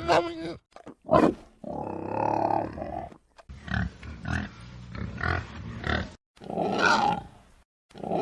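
Tapir calls: several separate bursts of grunting and calling, with a run of short grunts at about two a second through the middle.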